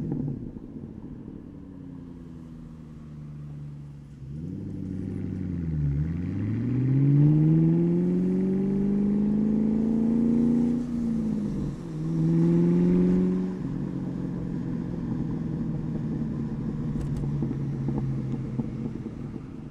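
2003 Mustang SVT Cobra's supercharged 4.6-litre V8 through a Bassani cat-back exhaust, under way. It drones steadily at first, then the revs climb for several seconds under acceleration. They drop sharply just past the middle at a gear change, hold briefly, and ease back to a steady cruise.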